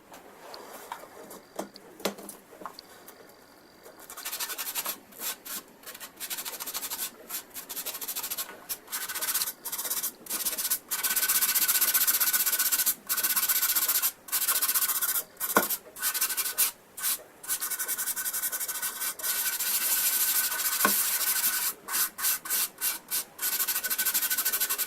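Sandpaper rubbed back and forth by hand over cured green putty on a plastic model's surface, a hiss in quick strokes with short breaks, starting about four seconds in after a few faint taps.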